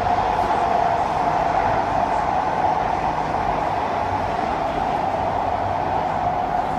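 Cabin running noise of a CSR Sifang C151A metro train in a tunnel: a steady roar of wheels on rail. Its pitch and level sink slowly as the train begins to slow for the next station.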